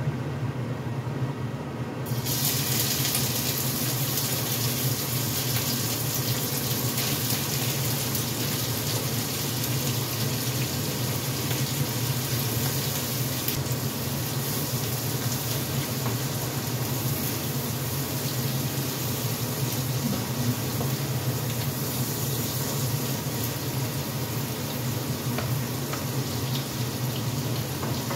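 Dried Medan anchovies frying in hot oil in a frying pan, a steady sizzle that jumps louder about two seconds in as they go into the oil.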